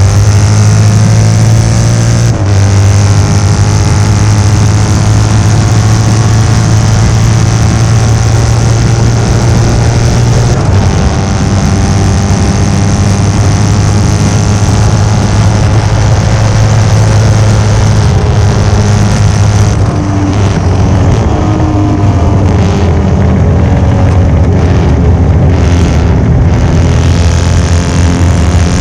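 1972 Norton 750 short-stroke parallel-twin racing engine running hard under load through a race, its pitch stepping at gear changes about 2 and 10 seconds in and rising and falling with the throttle.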